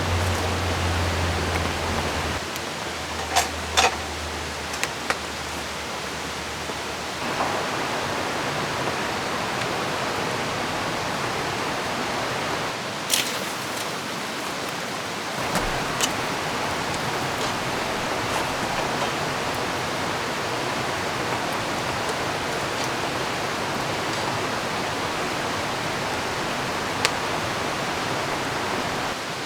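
Steady rushing of river water and rain. The noise shifts in level twice in the first several seconds, and a few sharp ticks sound through it.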